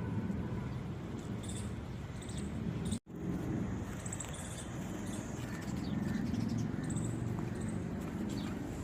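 Outdoor ambience: a steady low rumble with small birds chirping now and then. The sound cuts out for an instant about three seconds in.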